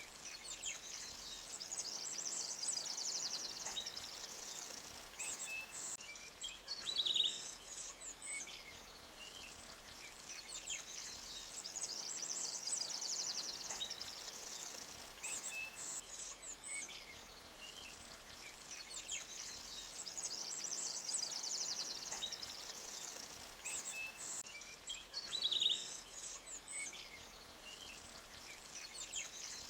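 Forest stream ambience: birds chirping and trilling in short calls over a steady faint hiss of running water. The same pattern of calls comes round again about every 18 seconds.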